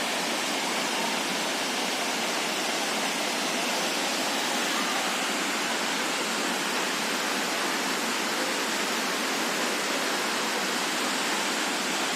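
Dassam Falls waterfall rushing steadily: an even, unbroken hiss of falling water.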